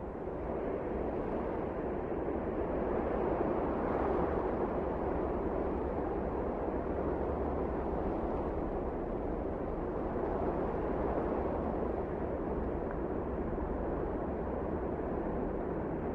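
Wind blowing hard and steadily, a dull rushing noise that swells over the first few seconds and then holds with slight rises and falls.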